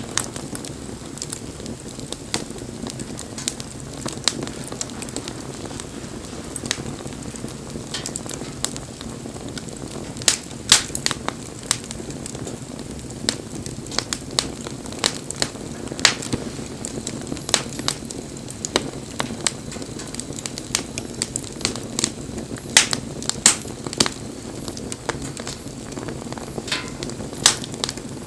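Wood fire burning: irregular sharp crackles and pops, some louder, over a steady low rush of flame.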